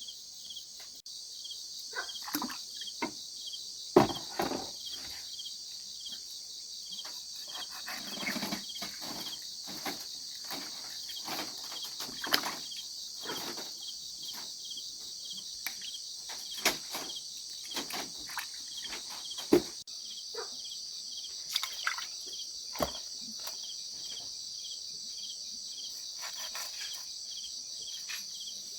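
Steady high-pitched chorus of insects, with scattered knocks and clicks of handwork throughout; the sharpest knock comes about four seconds in.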